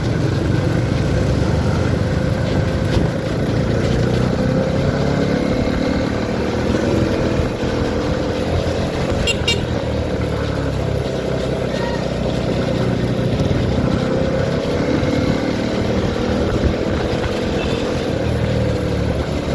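Motorcycle riding along, most likely a CFMoto 300SR: the engine's steady running tone drifts gently in pitch under heavy wind noise on the microphone.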